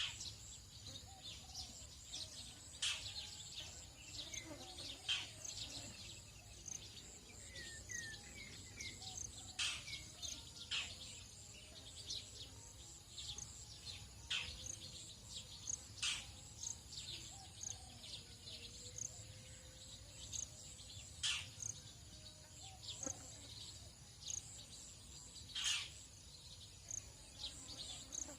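Tropical dawn chorus: many birds giving short, high chirps and sharp calls, scattered throughout, over a steady high-pitched insect drone.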